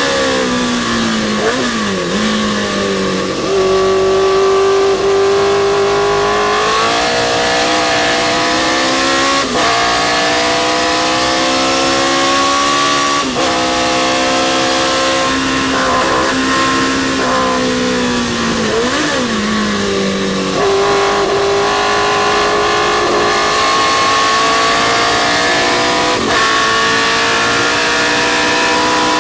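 Historic sports racing car's engine at racing speed: pitch climbs under full throttle and drops sharply at each upshift, several times. Twice, near the start and about two-thirds of the way through, it falls away under braking with short throttle blips on the downshifts.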